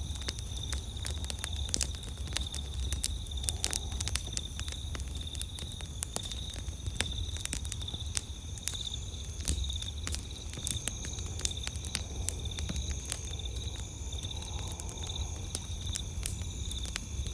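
Campfire crackling, with many sharp irregular pops and snaps over a low steady rumble. Night insects chirr steadily in a high, pulsing tone.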